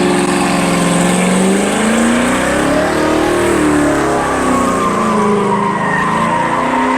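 A car drifting: the engine is held at high revs and its pitch climbs and falls with the throttle. A long tire squeal joins about halfway through and carries on.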